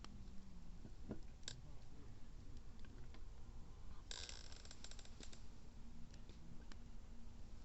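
Wood campfire crackling, with scattered single pops and, about four seconds in, a dense burst of rapid crackling and hissing lasting just over a second.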